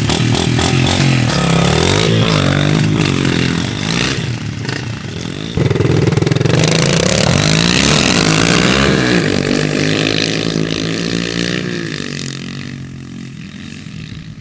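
Pit bike engine revving up and down, its pitch rising and falling over and over. It gets suddenly louder a little over five seconds in, then fades away over the last few seconds.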